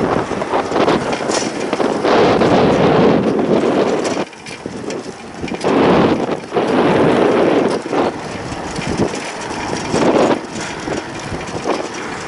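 Wind buffeting the microphone in loud, uneven gusts, easing briefly about four seconds in.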